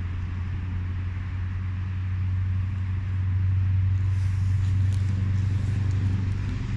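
Steady low hum of a running vehicle engine, growing slightly louder about four seconds in.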